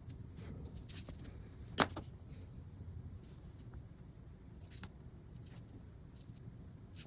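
Faint small clicks and rustles of hands handling small parts on a workbench, with one sharper tap about two seconds in, over a low steady hum.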